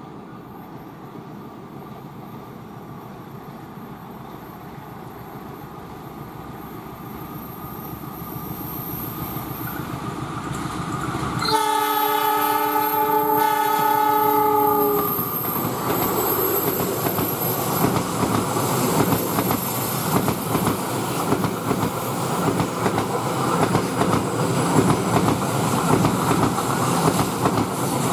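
A train approaching, its rumble growing steadily louder, then the locomotive's horn sounding one long multi-tone blast of about three and a half seconds as it arrives. The train then passes close by with loud wheel-and-carriage rumble and clatter.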